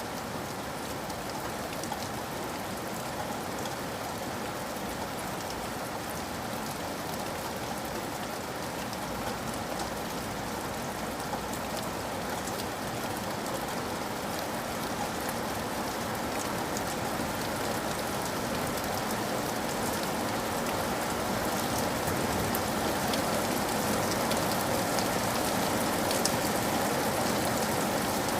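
Steady rain with scattered drops tapping on a roof, slowly growing louder.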